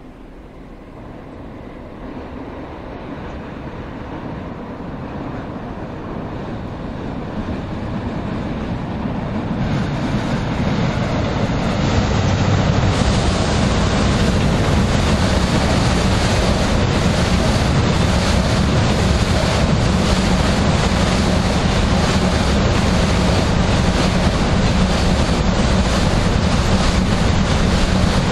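Container freight train hauled by an EH500 electric locomotive rolling over a steel truss bridge: a rumble that grows louder over the first twelve seconds or so, then a steady loud rumble as the wagons pass.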